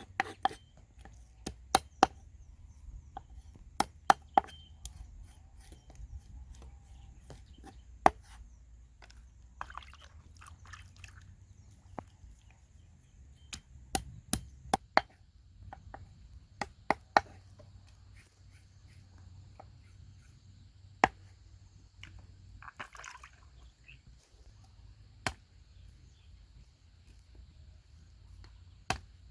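Knife chopping on a wooden cutting board: a few quick strokes at the start, then single strikes spaced one to several seconds apart, over a low steady hum.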